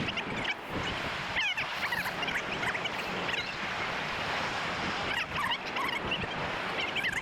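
Steady surf and wind noise with many short, quickly wavering high calls from a flock of birds scattered through it.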